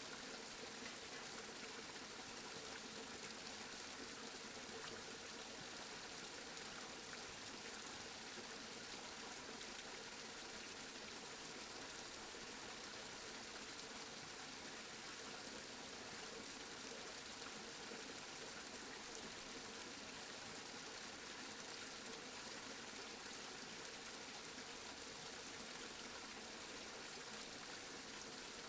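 Steady rainfall, an even hiss of falling rain with no breaks or thunder.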